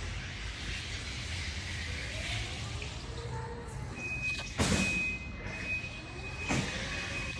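Truck running with a steady low rumble. About four seconds in a steady high tone starts, and two short loud noises follow, the first a little after and the second about two seconds later.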